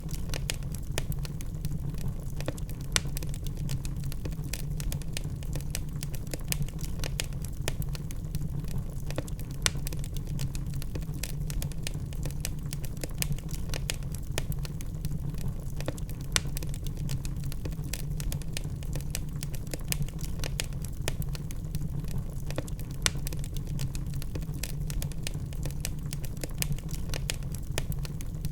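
Log fire burning in a fireplace: a steady low rumble of flames with frequent irregular crackles and pops.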